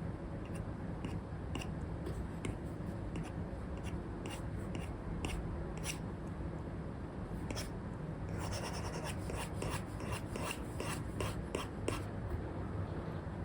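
Stylus nib scratching across a paper-like screen film as it draws on an iPad: scattered short strokes, then a quick run of back-and-forth hatching strokes from about eight to twelve seconds in. Steady low white noise runs underneath.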